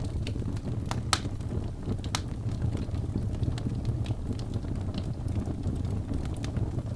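Wood fire burning in a fireplace: a steady low rumble of flame with scattered sharp crackles and pops from the logs, the loudest pop about a second in.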